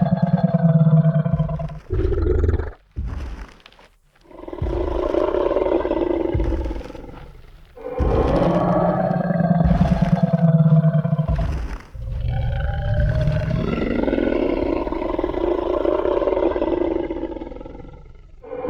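Designed Tyrannosaurus rex roar sound effect: four long, low roars of a few seconds each, separated by short breaks. A few short low thumps come between the first two roars.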